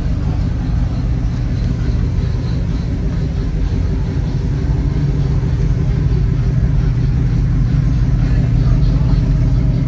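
Motor vehicle engine running steadily with a low rumble that grows a little louder in the second half.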